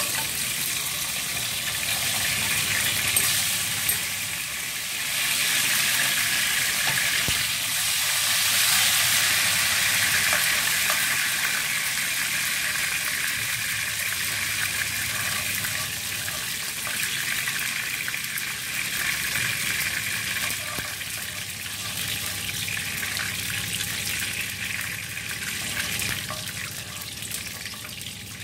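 Whole spices (cinnamon bark, fennel seeds, cardamom, cloves) sizzling in hot oil in a wok as they are stirred, a steady frying hiss that grows a little louder from about five seconds in for several seconds.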